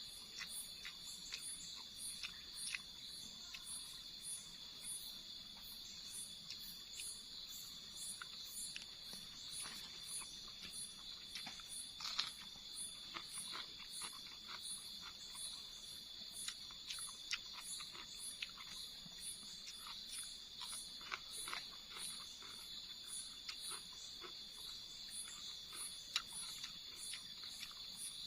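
Night insects, crickets among them, chirring steadily in the forest, with a higher chirp pulsing a little over once a second. Faint scattered clicks come through over the drone.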